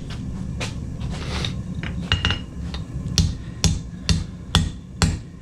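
Hammer blows on hot steel at the anvil: a few scattered strikes, then a steady run of about two strikes a second from about three seconds in, over a steady low hum.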